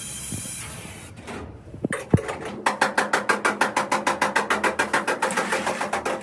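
Rapid, even mechanical clicking, about eight clicks a second, from a workshop tool or mechanism, following a steady hiss that dies away within the first second.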